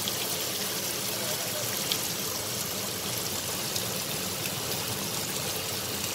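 Sliced potatoes and chopped onion frying in shallow oil in a pan: a steady sizzle.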